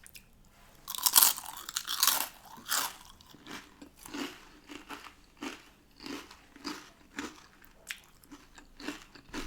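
A loud crunching bite into chip-shop fish and chips about a second in, followed by steady chewing at about two chews a second.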